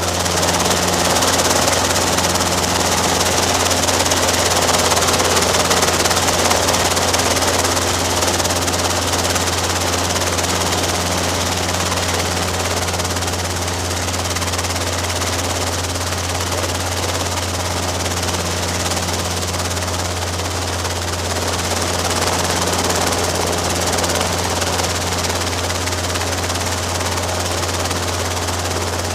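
Robinson R22 helicopter running steadily, a constant low drone of rotor and piston engine with a hiss over it.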